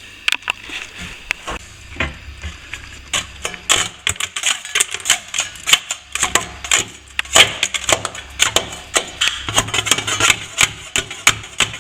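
Hand tool scraping and raking out plaster along a ceiling-to-wall crack to open it up, with quick irregular scratches and knocks several times a second.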